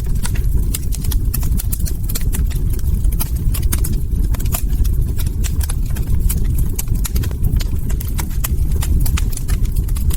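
Log fire crackling: a dense, irregular stream of sharp snaps over a steady low rumble of burning wood.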